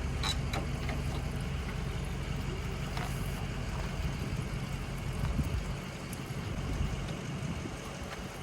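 An engine idling with a steady low hum, with a few light metallic clicks over it.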